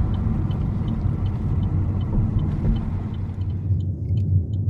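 Steady low rumble of a car driving, heard from inside the cabin, with a faint quick ticking over it that stops near the end.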